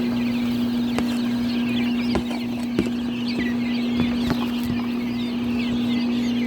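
Many chicks peeping, a steady chorus of short, wavering high chirps, over a constant low hum, with a few light clicks.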